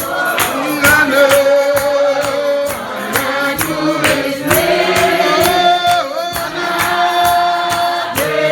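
Congregation singing a hymn in long held notes over a steady percussion beat of about three strokes a second.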